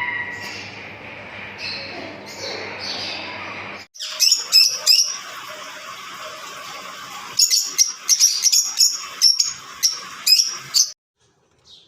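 Lovebirds chirping and chattering with high, shrill calls, over a low steady hum at first. About four seconds in, the sound changes abruptly to a louder flock calling in quick, dense chirps, which stop about a second before the end.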